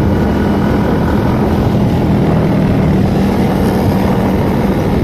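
Motorcycle riding at a steady speed, its engine holding a steady tone under loud, dense low road noise.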